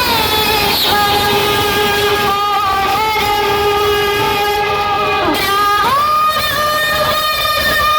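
Loud music over a DJ sound system: long held horn-like electronic notes that step to a new pitch about a second in and again near six seconds, with short gliding slides between.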